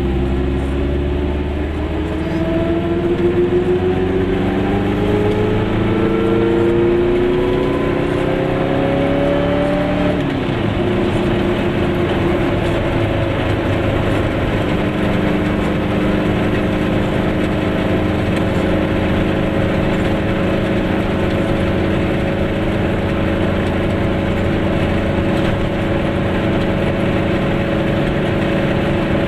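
Glas Goggomobil's small two-stroke twin engine heard from inside the car as it pulls away, its pitch rising steadily for about ten seconds. The pitch drops at a gear change, shifts again a few seconds later, and then the engine runs steadily at cruising speed over road noise.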